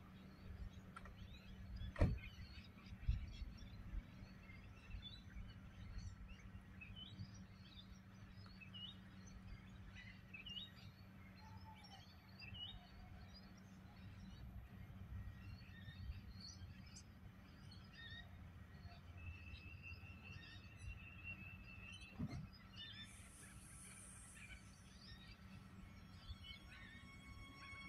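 Small birds chirping and twittering over a low steady hum, with a few sharp knocks, the loudest about two seconds in.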